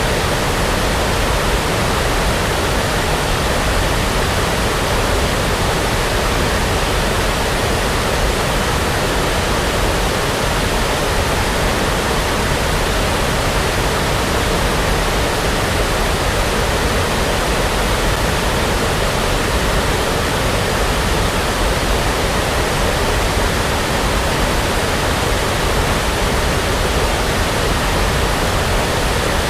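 Steady brown noise: an even, unbroken hiss with a deep, rushing low end, like distant falling water.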